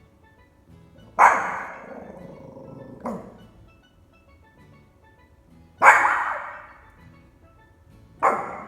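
Small dog, a Pomeranian, barking four times, single barks a few seconds apart, each sharp at the start and trailing off, with quiet background music underneath.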